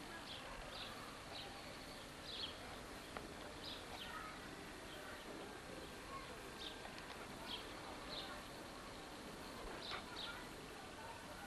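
Small birds chirping in the trees: short, high chirps every second or so over a steady background hiss.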